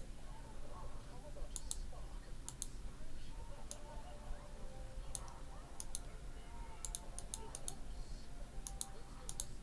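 Sharp light clicks at irregular intervals, many coming in quick pairs, over a faint steady hum.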